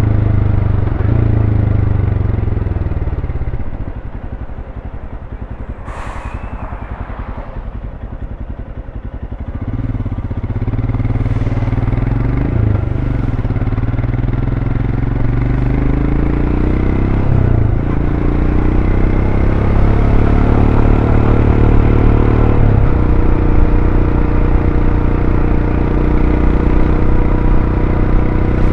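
Royal Enfield Scram 411's air-cooled single-cylinder engine on its stock exhaust, ridden: the note drops off with the throttle closed, then the bike pulls away again, the pitch climbing steadily with short dips at three upshifts. A short burst of noise about six seconds in.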